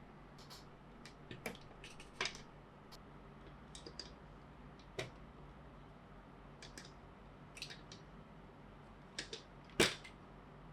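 Plastic Plarail toy track pieces and parts being handled and clicked together: scattered short clicks and knocks at irregular intervals, with one louder knock near the end.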